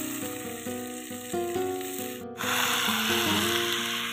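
Spinach and vegetables sizzling as they fry in hot oil in a steel wok, under a light instrumental background tune. After a brief break about two seconds in, the sizzle becomes much louder and stays so.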